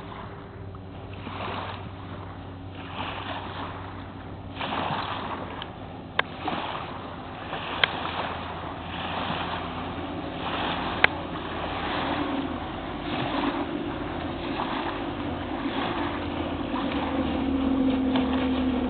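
Mercury 250 Pro XB two-stroke V6 outboard running steadily at speed, under a rush of wind and water that surges every second or so. Three sharp clicks are heard, and the engine note climbs slightly near the end.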